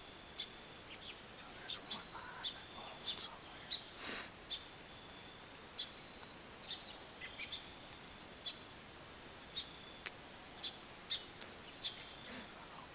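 Small birds chirping in the woods: many short, sharp high chirps scattered irregularly, with a thin high whistle held briefly now and then.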